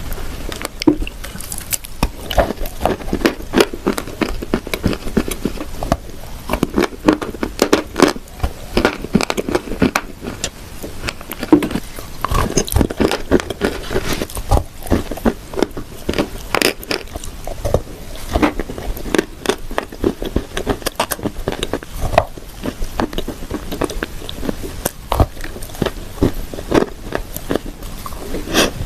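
Close-up biting and crunching of dry edible clay pressed into shortbread-cookie shapes, with many small, irregular crackles and crumbly chewing.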